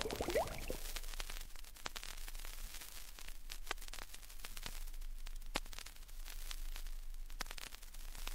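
Vinyl record surface noise in the silent groove between tracks: faint steady hiss with scattered clicks and pops.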